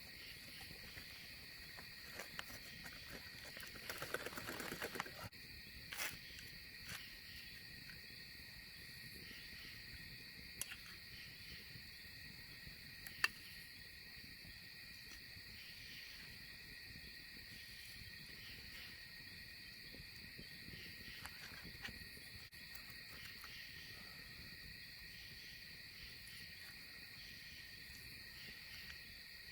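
Steady chorus of crickets, a continuous high trill, with a few sharp clicks and a short rustle over it.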